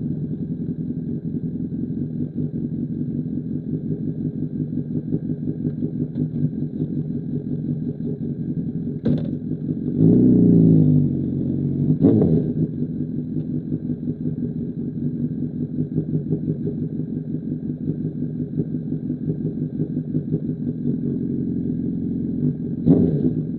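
2005 Honda CBR1000RR's inline-four engine idling through an SC Project CR-T exhaust, with one quick throttle blip about ten seconds in that rises and falls back to idle. A few short sharp clicks come at roughly nine, twelve and twenty-three seconds.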